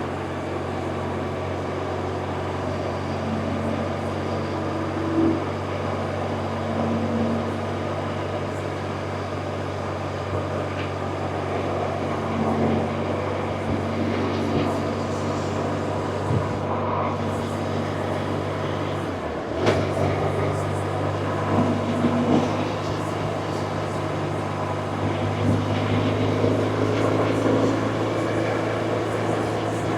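BMW R1100RT's boxer twin engine running steadily while the motorcycle is ridden, with wind and road noise. About two-thirds of the way through, the engine note dips briefly and then picks up again.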